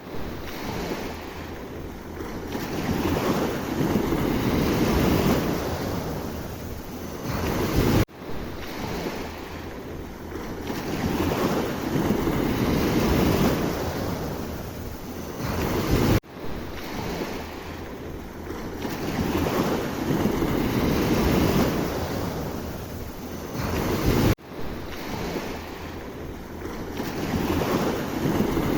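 Sea waves washing in and breaking, a rushing surge that swells and falls back. The same stretch of surf repeats about every eight seconds, with an abrupt cut at each restart.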